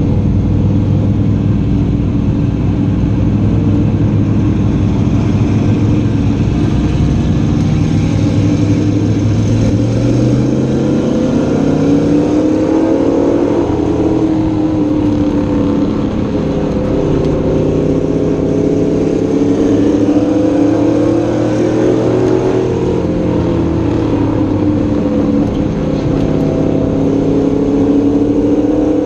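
Race-prepared Chevy Silverado pro truck's engine heard from inside the cab, running steady and low at first, then revving up about ten seconds in and rising and falling in pitch every several seconds as it accelerates and lifts around the oval.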